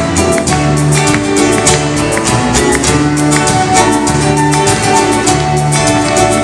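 Instrumental passage of a Latin American trio song: plucked guitars over held bass notes, with a steady, even rhythm of short strokes.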